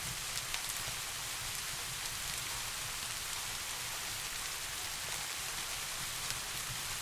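Steady rain falling, a dense even hiss with scattered sharper drop ticks, over a low continuous rumble.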